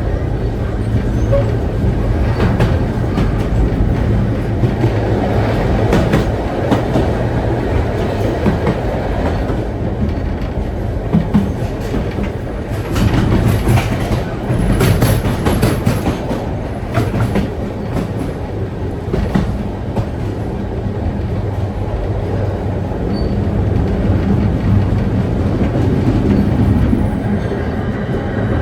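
Vintage carriage of the Hoorn–Medemblik heritage steam train rolling along the track: a steady rumble with clicks of the wheels over rail joints, coming thick and fast about halfway through.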